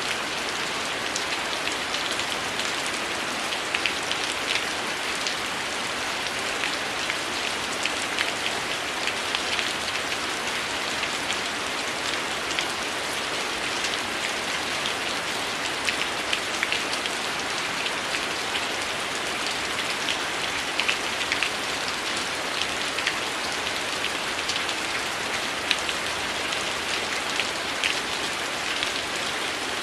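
Heavy rain falling steadily as an even hiss, mixed with a wood fire crackling: many short, sharp pops scattered irregularly over the rain.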